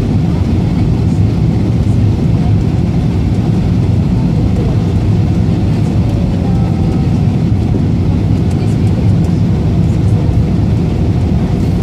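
Steady cabin noise of an Airbus A320 airliner in flight on approach, heard from a passenger seat: a constant low rush of engine and airflow noise with no changes.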